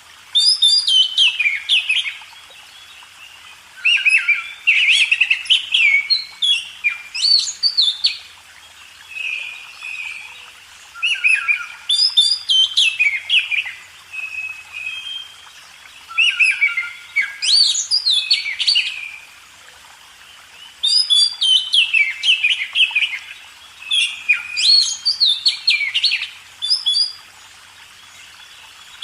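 Oriental magpie-robin (kacer) singing: loud, varied phrases of quick whistled notes sliding up and down, delivered in bursts of a few seconds with short pauses between them.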